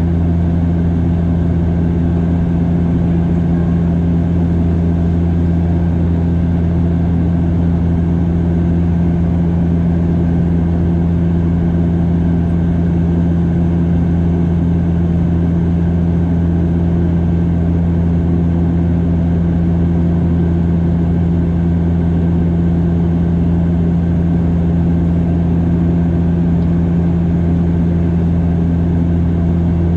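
Bombardier DHC8-Q400 turboprop in flight, heard inside the cabin: a loud, steady, low propeller drone with a deep hum and its overtone, unchanging throughout.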